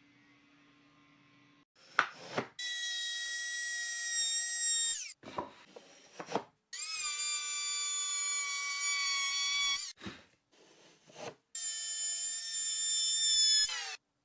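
Small electric power tool run three times, each burst a steady whine lasting about three seconds whose pitch sags as it stops.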